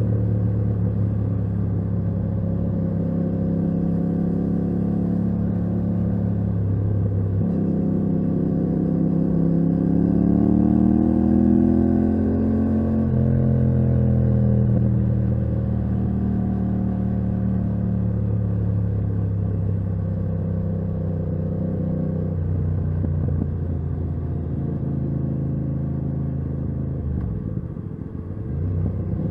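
Yamaha MT-07's parallel-twin engine through a titanium Akrapovic exhaust, heard from the rider's seat while riding. The revs step down suddenly about seven seconds in, then climb for a few seconds and ease off into steady cruising. Near the end the throttle briefly closes, dropping the revs and loudness, before picking up again.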